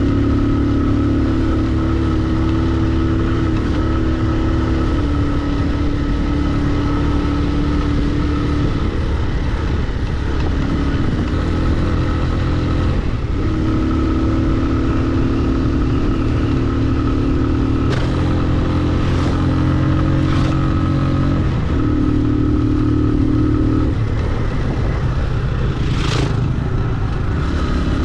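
Motorcycle engine running under way, its pitch stepping up and down several times with throttle changes. A few short clatters come in the second half.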